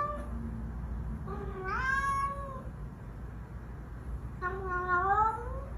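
A cat meowing: two drawn-out meows about three seconds apart, each rising in pitch toward its end, over a low steady hum.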